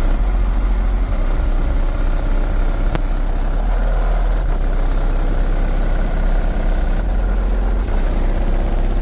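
A modified car's engine idling, loud and steady.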